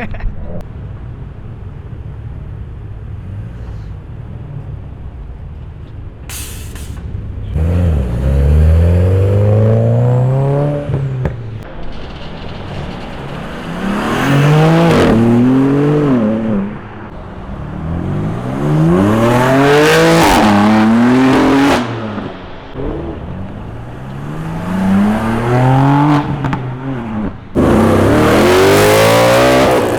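Audi's engine idling, then revved hard about five times. Each time the pitch climbs steeply and drops back to idle.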